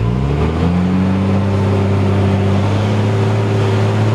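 Truck engine revving up during the first second, then holding at steady, higher revs, as when it pushes through deep mud.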